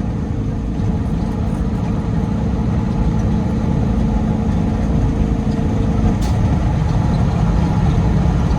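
Peterbilt 389 semi truck heard from inside the cab: a steady low engine and road rumble with a humming tone that drops away about six seconds in.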